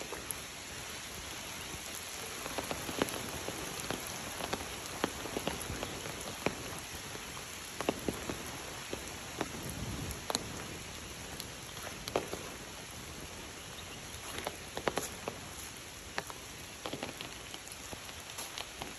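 Steady rain falling, an even hiss dotted with irregular sharp taps of single drops striking close by.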